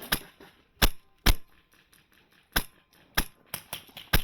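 Airsoft rifle shots: about six sharp single cracks at uneven intervals, with a lull of about a second in the middle.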